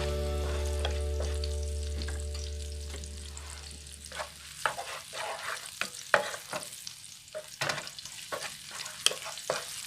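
Green onions frying in cooking oil in a pan, stirred with a utensil in irregular scraping strokes from about four seconds in.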